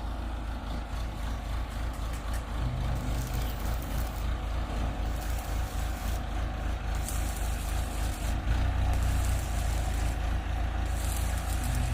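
Engine of a large vehicle running steadily, a low rumble that grows a little louder about eight seconds in.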